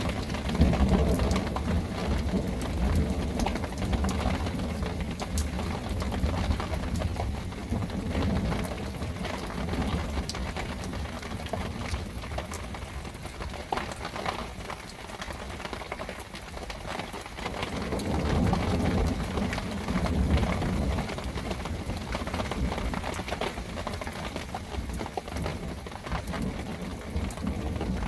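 Heavy rain falling steadily, with low rumbles of thunder swelling near the start and again about two-thirds of the way through.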